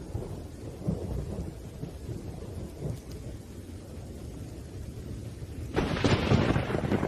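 Thunderstorm: low thunder rumbling under rain, then a sudden, louder thunderclap near the end.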